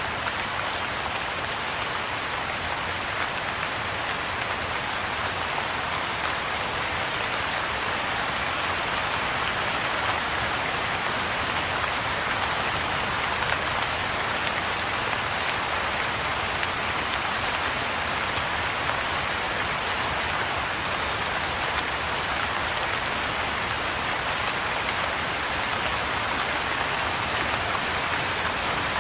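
Steady rain falling on a pond and its grassy banks: an even hiss of countless small drops, with no break or change in intensity.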